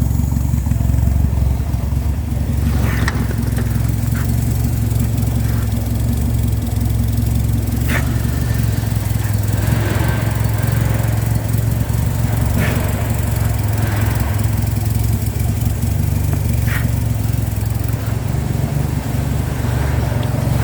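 Ford Escort RS Turbo's four-cylinder engine idling steadily after a jump start, with a few light knocks over the top.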